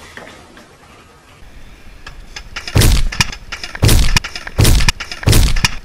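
A quiet stretch, then four hard knocks from about halfway in, each roughly a second apart.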